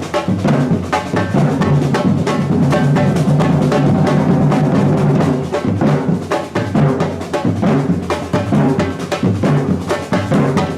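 Batucada samba percussion ensemble playing: deep bass drums and snare drums in a fast, driving rhythm that is steady and loud. The strokes run densest and most even for a few seconds in the first half.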